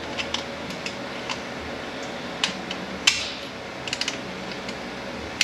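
Small metal parts and hand tools clicking and tapping against each other while working on a snap ring inside a Ford 10R80 automatic transmission: scattered light clicks, a sharper clack with a short scrape about three seconds in, then a quick run of clicks. A steady fan hum runs underneath.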